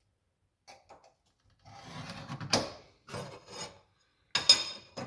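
A metal scribe scratching marking lines into sheet metal in several short strokes, with a sharp click in the second and last strokes, the last being the loudest.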